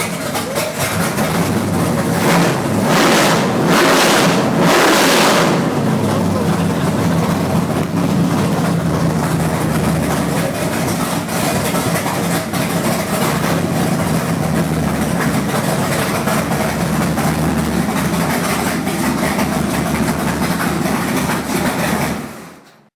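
Blueprint Engines Pro Series 632 big-block Chevrolet V8 running, with a few quick throttle blips a few seconds in, then settling back to a steady idle before the sound cuts off near the end.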